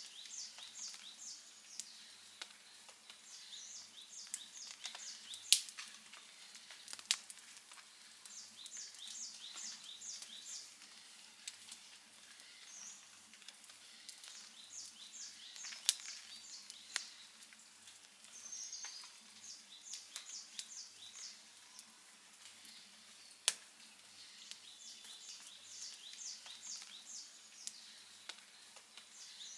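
Outdoor wood campfire crackling, with scattered small ticks and a few sharp pops, the loudest about 5, 16 and 23 seconds in. A high-pitched chirping call repeats in short runs every few seconds behind it.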